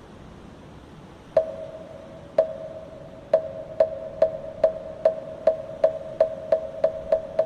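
Moktak, the Korean Buddhist wooden temple block, struck with a mallet: a first strike about a second in, two more a second apart, then strikes that speed up to about three a second, each with a short ringing tone. A faint steady hiss lies underneath.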